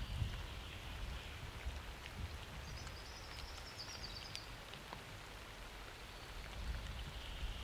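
Steady summer rain falling, with scattered single drops tapping close by and a low rumble underneath.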